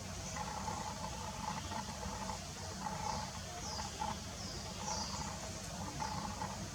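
A small bird calling with short, high, falling chirps, repeated several times, over a steady low background rumble.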